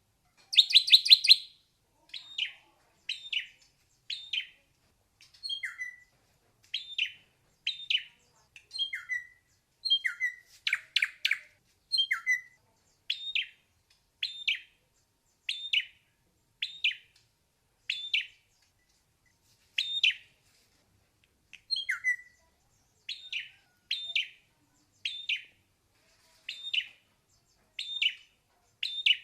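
Ashy drongo singing: short high notes repeated about once a second, several sliding down in pitch, broken by a harsh rapid rattle just after the start and again around ten seconds in.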